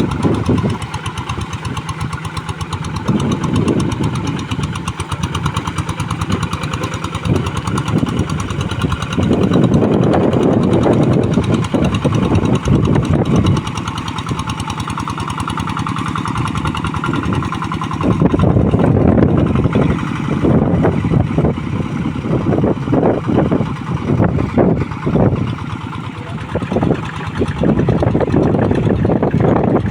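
Two-wheel hand tractor's single-cylinder diesel engine chugging under heavy load while pulling a moldboard plow through deep, soft paddy mud, at full throttle and swelling louder in stretches as the load rises.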